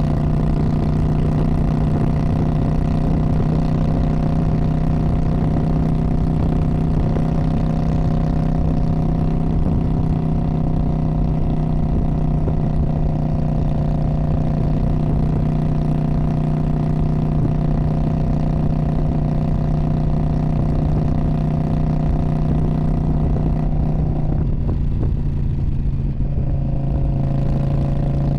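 2019 Indian Scout Bobber's liquid-cooled V-twin running through a Freedom Performance Radical Radius exhaust, holding a steady, even note for the whole stretch. The pitch drops slightly near the end.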